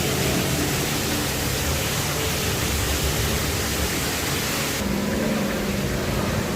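Steady, even rushing noise, fairly loud. About five seconds in it changes abruptly: the high hiss drops away and a low hum remains.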